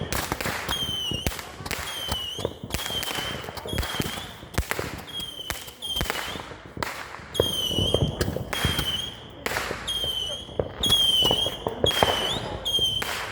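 Fireworks going off in quick succession: a steady string of sharp bangs and crackles, about one to two a second, many of them with a short high whistling note.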